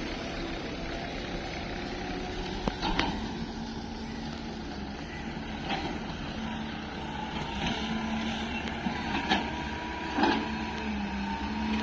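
Diesel engine of heavy machinery running steadily, its pitch stepping up about three seconds in, with a few sharp knocks scattered through.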